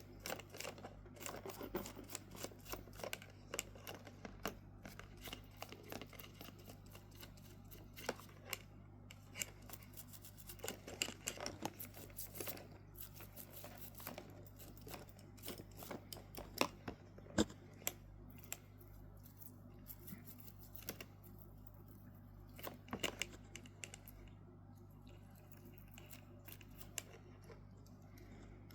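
Many small, irregular clicks and scrapes of hands working on metal watch parts during cleaning and disassembly, over a steady low hum.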